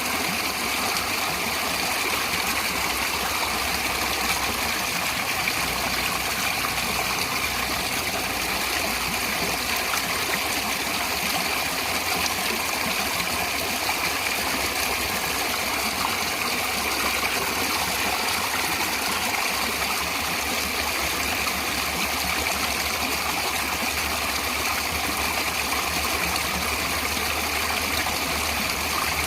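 Natural running water, a stream flowing and rushing steadily. A low steady hum sits underneath from about two-thirds of the way through.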